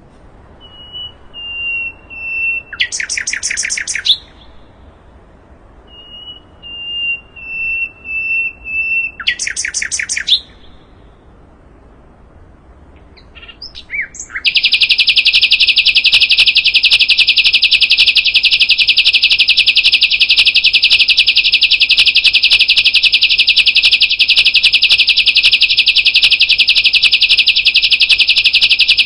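Sikatan londo (a flycatcher) singing: twice a thin, high, slightly falling whistled note followed by a short fast buzzy trill, then after a brief pause a loud, unbroken, very rapid rattling trill that starts about halfway through and keeps going.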